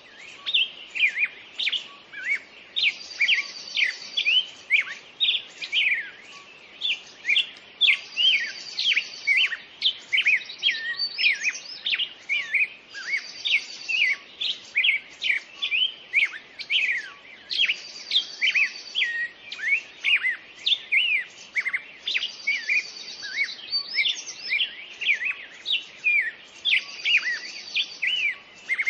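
Several songbirds singing at once, dense quick chirps and down-sweeping notes, with a high trill that comes back every four to five seconds.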